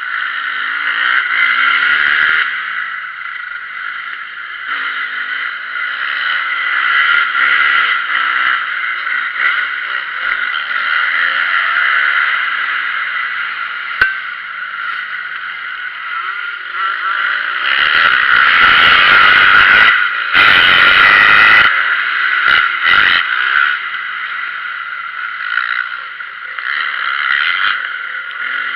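Motocross bike engines running and revving on a dirt track, the pitch rising and falling as throttle opens and closes, with a louder stretch about two-thirds of the way through.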